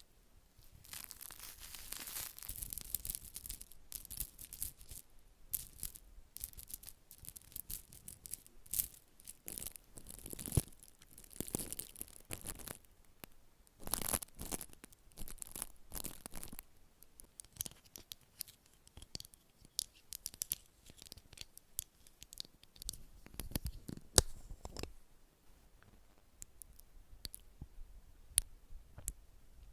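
Very close-miked ASMR facial-care sounds: irregular scratching and crinkling with many sharp clicks, thinning to scattered ticks in the last few seconds.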